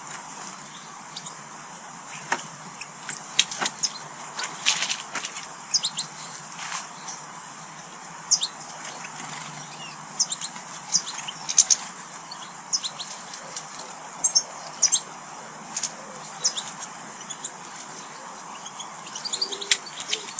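Small garden birds at feeders calling, with many short, sharp chirps scattered throughout over a steady background hiss.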